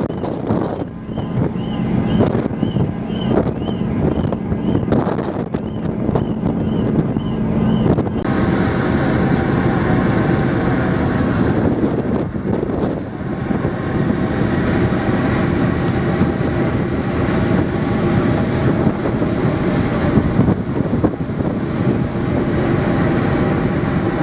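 Cross-Channel ferry under way: a steady low rumble of the ship's engines and passage, with wind buffeting the microphone. About eight seconds in, a steady hum of several even tones joins it.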